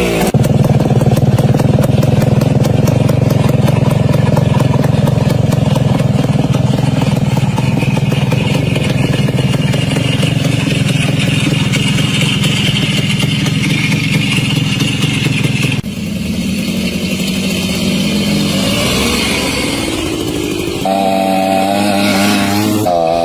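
Minsk 125's single-cylinder two-stroke engine running steadily, with a rapid even pulse. About two-thirds of the way through it drops to a lower, quieter note, then picks up again near the end.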